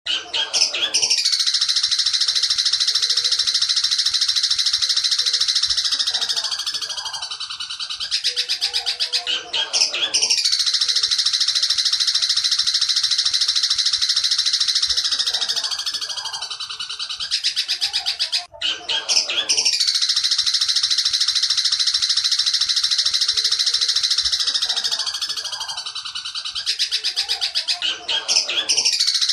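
Long-tailed shrike (cendet) song of the loud 'petir' style, played as a training recording: a dense, continuous, high trill that starts suddenly out of silence and repeats in loops of about nine seconds, each fading and falling briefly before starting again.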